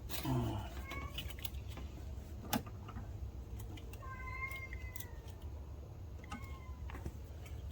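A cat meowing, with a long, held meow about four seconds in and shorter calls around it, among scattered sharp clicks and knocks.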